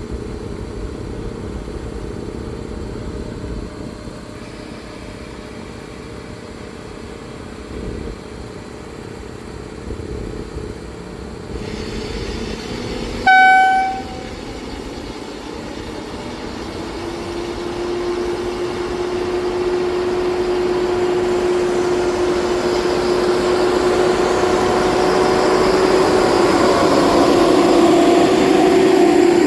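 A train horn sounds one short blast about halfway through. A train then approaches, growing steadily louder with a steady hum under the rumble of the wheels.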